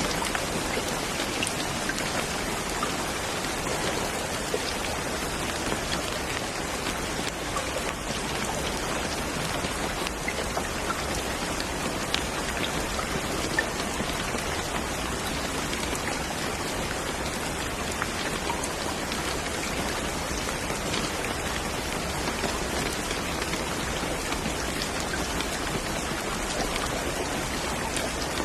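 Steady rain falling, with scattered individual drops pattering on a surface.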